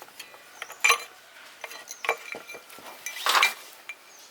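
Metal tools and parts clinking against each other: a few sharp clinks, then a longer clatter about three seconds in.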